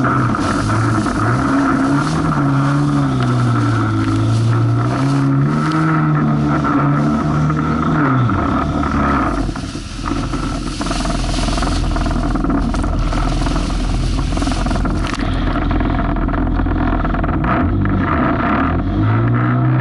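Jet ski engine running, its pitch rising and falling with the throttle for about eight seconds. The engine note then drops away, leaving rushing wind and water noise with a low rumble on the microphone. The engine note rises again near the end.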